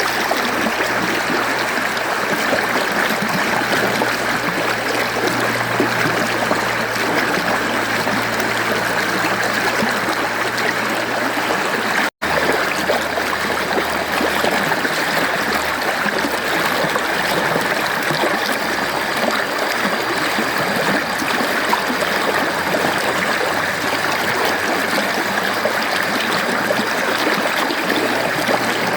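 Mountain stream flowing steadily over rocks, an even rushing with trickling and gurgling in it. The sound drops out for an instant about twelve seconds in, then carries on.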